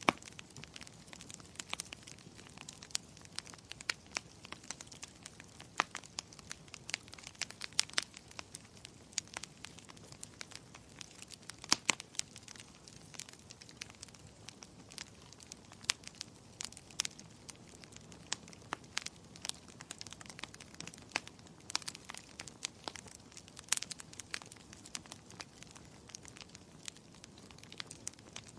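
Fire crackling in a fireplace: irregular sharp pops and snaps, several a second with a few louder ones, over a low steady hiss.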